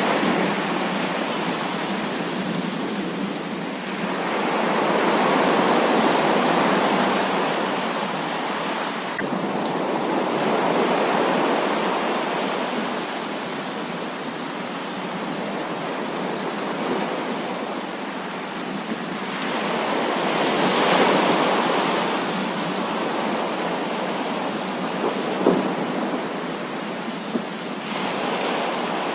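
Heavy rain pouring steadily, swelling and easing in slow waves every several seconds, with one sharp tick of a drop about three-quarters of the way through.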